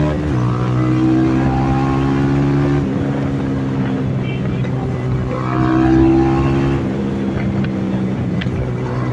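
Benelli TNT 25's single-cylinder four-stroke engine and exhaust, heard from the rider's position, running at a fairly steady speed. The engine note steps slightly a few times and swells for a moment past the middle, with wind noise underneath and a couple of faint sharp pops near the end.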